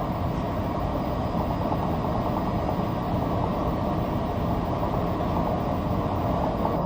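Aircraft engine drone heard from inside the cabin, steady and even throughout.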